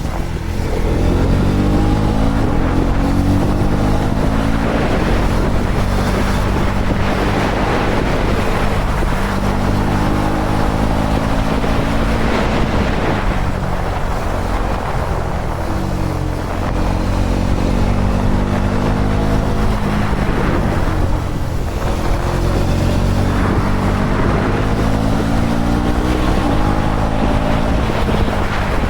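KTM Duke 250's single-cylinder engine running under way, its pitch rising again and again as it accelerates, then dropping back at each gear change, with wind noise on the microphone.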